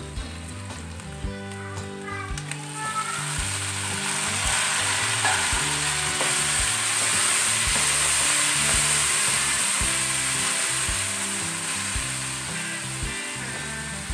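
Onions and chopped tomatoes frying in hot oil in an aluminium pot, stirred with a wooden spoon. The sizzle swells about three seconds in as the wet tomatoes go in, then slowly eases toward the end.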